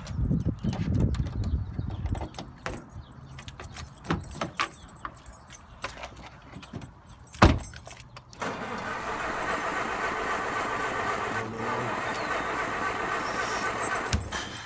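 Clattering and keys jangling, then one loud slam about seven and a half seconds in, followed by a car engine running steadily until just before the end.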